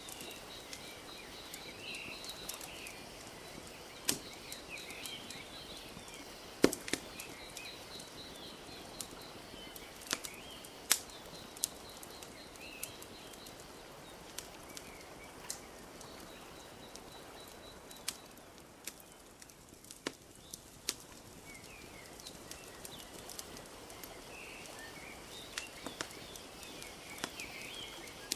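Wood fire crackling with irregular sharp pops, the loudest about 7 and 11 seconds in, over a soft steady wash of lapping lake water. Small birds chirp now and then, with a thin high trill repeating in the background.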